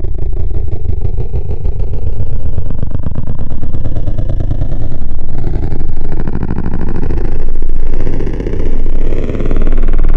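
Forge TME VHIKK X synthesizer module putting out a loud, gritty low drone with a fast pulsing texture, swelling and dipping in loudness several times.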